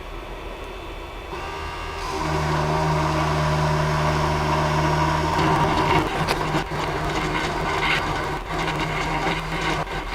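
Creality CP-01's CNC spindle motor starting up and running with a steady hum. About five seconds in the sound turns rougher and uneven as the machine begins engraving.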